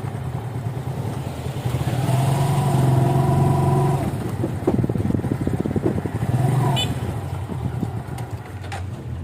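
A motorcycle being started with difficulty over a steady low hum: a steady whirring about two seconds in lasts two seconds, then comes an irregular clattering and a second short whir.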